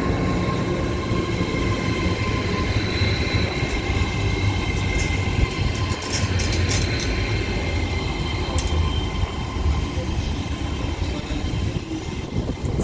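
Avanti West Coast Class 805 bi-mode train arriving slowly at the platform on its diesel engines: a steady low rumble with several steady whining tones, and a few sharp ticks about halfway through.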